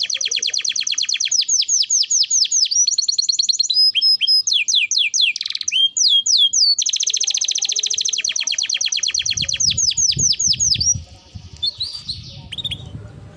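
A songbird singing fast trills of repeated downward-sweeping notes, about ten a second, with a short varied phrase midway. Near the end it drops to softer scattered chirps over a low rumble.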